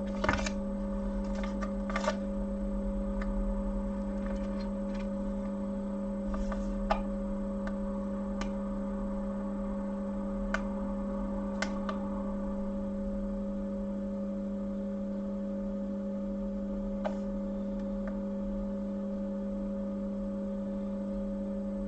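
Steady electrical hum from the repair bench, with a few light clicks and taps from small tools and parts being handled, about a second in, near two seconds, and now and then after.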